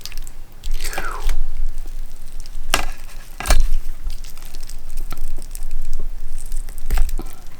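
Hands pulling apart an air-fried turkey wing, with handling noise and a few sharp cracks, the loudest about three and a half seconds in and another near the end.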